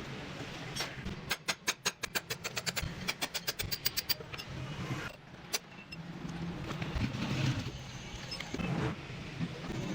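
A rapid run of sharp taps or knocks, several a second for about three seconds, over a steady low hum, with a few scattered knocks later.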